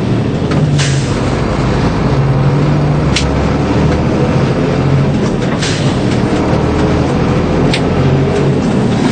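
DAF 75 truck driving: a steady engine drone and road rumble whose hum swells and eases, with a few sharp clicks or rattles.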